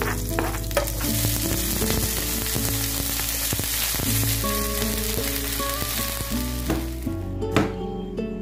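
Garlic, onion and vegetables sizzling in hot oil in a wok, a steady frying hiss that fades about seven seconds in. A couple of sharp knife strokes on a cutting board follow near the end, with background music underneath throughout.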